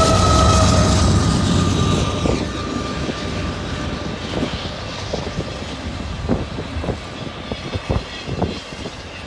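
Mid-train Union Pacific diesel locomotives screaming under heavy load as they pass, a high whine and deep rumble that fade over the first couple of seconds. Freight cars then roll by with wheels clacking over the rail joints, getting steadily quieter.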